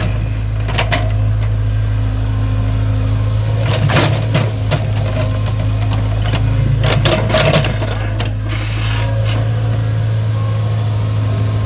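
Excavator's diesel engine running with a steady low drone, with a few sharp knocks and clatters about a second in, around four seconds in and again near seven seconds in.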